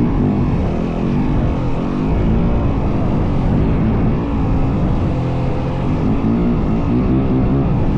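Yamaha WR450F dirt bike's single-cylinder four-stroke engine running under way, its pitch rising and falling over and over as the throttle opens and closes.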